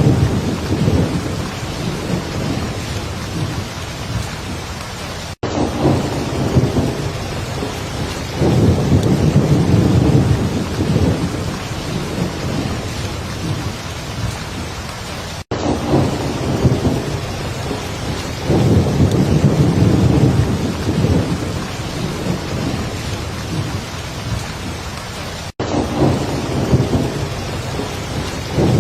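Heavy rain falling steadily, with low rolling thunder rumbles swelling up about every ten seconds. The sound cuts out for a split second three times, about ten seconds apart.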